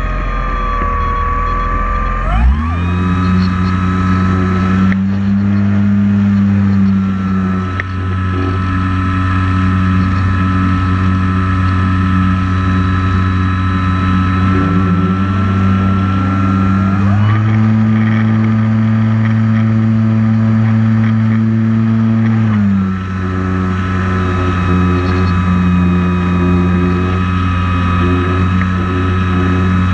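Drone's propeller motors whining steadily, the pitch gliding to a new level and holding each time the flying speed changes: shifts about two seconds in, near the middle and again a little later.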